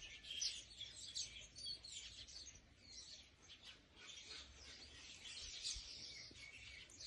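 Many small birds chirping at once: a dense, continuous chorus of short, high chirps and twitters.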